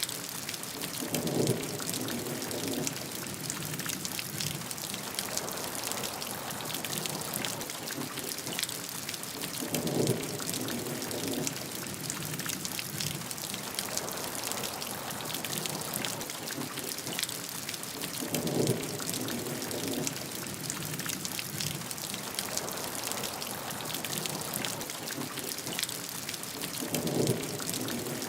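Steady heavy rain, a dense hiss of drops with fine patter on a surface. A short, deeper swell rises out of it about every eight to nine seconds, four times.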